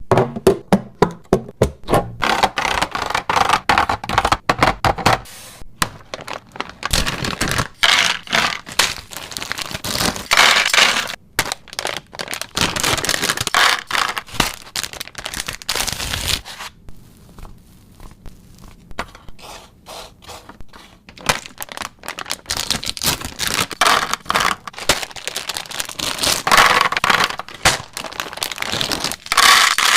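Groceries and plastic containers being handled and set down: an irregular run of clicks, knocks and scrapes, with a few longer stretches of rustling.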